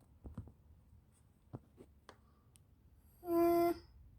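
A few light clicks and taps of plastic parts being handled on a computer case's front USB panel, then a little over three seconds in a short, steady, high-pitched held tone.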